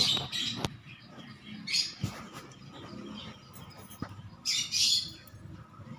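Baby cockatiel's harsh, raspy calls: three short bursts, the last one longer and louder near the end, over faint rustling.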